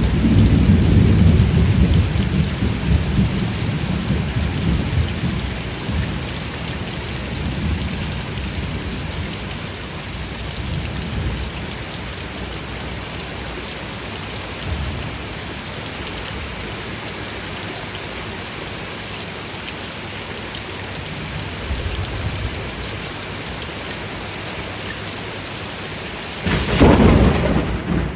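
Steady rain in a thunderstorm. A low thunder rumble fades away over the first several seconds, and a loud clap of thunder breaks in near the end.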